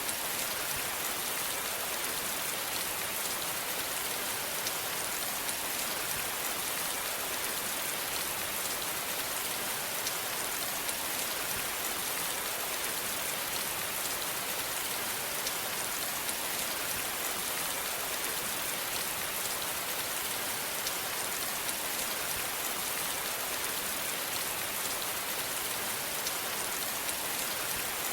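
Steady rain falling, an even hiss dense with fine drop patter, with no change in intensity.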